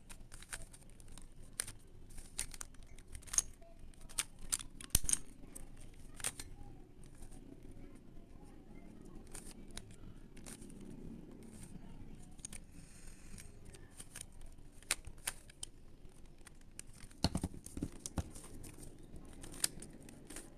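Plastic twisty puzzle being turned by hand: irregular rapid clicks and clacks of the layers snapping round, with a louder cluster of clacks near the end.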